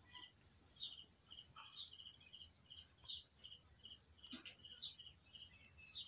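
Faint bird chirping: a quick run of short, high chirps, with a rising call about once a second. A faint knock about four seconds in.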